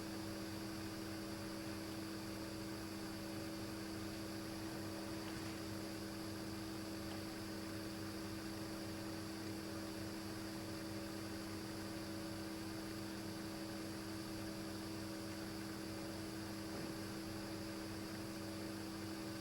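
Steady electrical hum made of several fixed tones over a constant hiss, with no other events.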